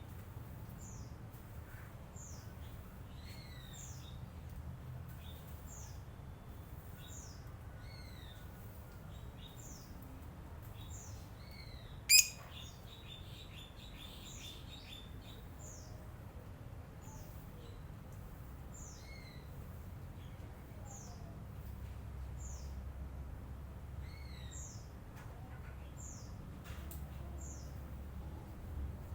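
Lovebird chirping: short, high, falling chirps about once a second, with one much louder sharp shriek about twelve seconds in followed by a quick run of chattering notes.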